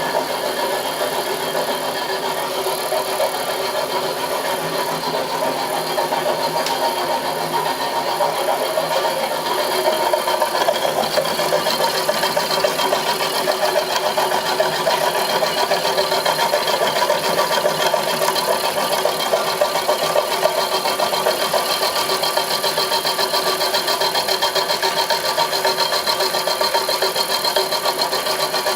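Homemade milling machine running steadily under power, a continuous mechanical hum and rattle that grows a little louder about ten seconds in.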